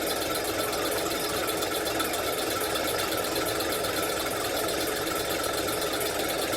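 A machine running steadily with a fast, even rhythm.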